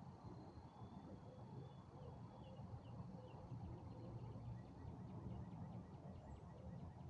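Faint outdoor spring evening soundscape: distant songbirds giving short high chirps and whistled notes, with a quick ticking trill about two-thirds of the way through, over a low steady rumble.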